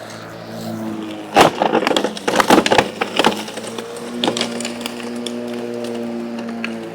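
Battery-powered electric push mower running with a steady motor-and-blade hum, its blade chewing through sticks. A quick series of sharp wooden cracks and splintering comes about a second and a half in and lasts nearly two seconds, with one more crack a second later.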